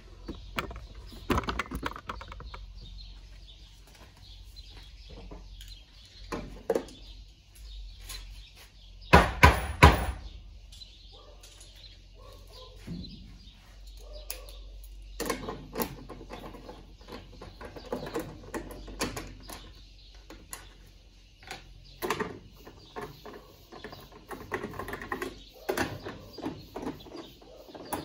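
Irregular clicks, knocks and clatter of washing-machine parts and tools being handled during disassembly, with a few louder knocks about nine to ten seconds in, over a low steady hum.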